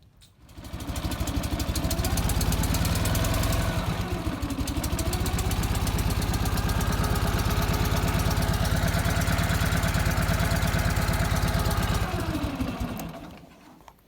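Ural Bavarian Classic's 650 cc flat-twin motorcycle engine catching about half a second in and starting almost at once after a wet night, then running with its revs dipping and rising, and shut off near the end.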